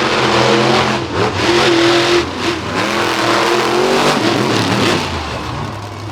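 Monster truck engine revving hard, its pitch rising and falling again and again as the throttle is worked. It drops back and fades after about five seconds.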